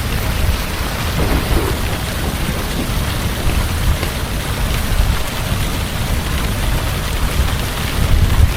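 Heavy rain falling steadily over a continuous low rumble of thunder, which swells slightly near the end.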